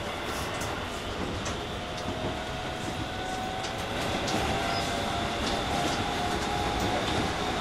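Running sound inside a Shin-Keisei 8900 series commuter train with a Mitsubishi IGBT inverter. The motor tone rises slightly in pitch and grows a little louder from about halfway through, as the train gathers speed, over steady rail noise with scattered clicks from the wheels on the track.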